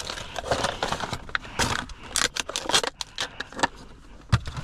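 Irregular clicking and rattling of small hard objects being handled, with a sharp knock near the end.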